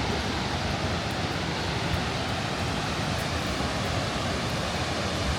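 Steady rushing roar of a large waterfall on the Krka River, the water crashing down continuously with no breaks.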